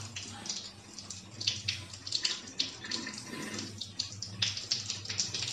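Rain falling: an uneven hiss with frequent brief surges, over a faint steady low hum.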